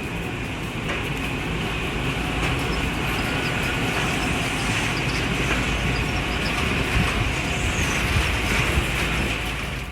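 Train running on rails: a steady rumble with a hiss, growing slightly louder.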